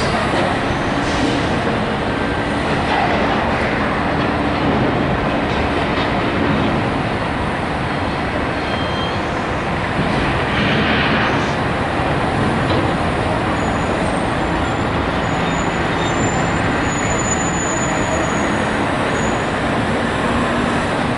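Steady, loud mechanical rumble and noise, as from heavy machinery, with a faint low hum in the first few seconds and faint high whistling tones in the second half.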